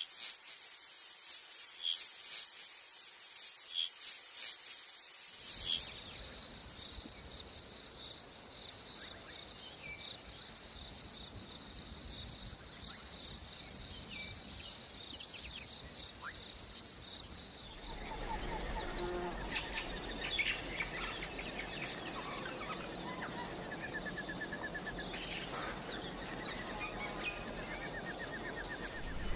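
Jungle ambience of insects and birds: rapid rhythmic insect chirping at first, then a single steady high insect buzz, then bird calls over insect trills. The sound changes abruptly twice.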